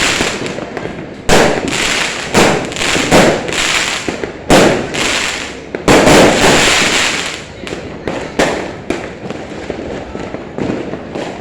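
Fireworks going off in quick succession: loud sharp bangs each followed by a fading crackle, densest around the middle, with a scatter of smaller pops near the end.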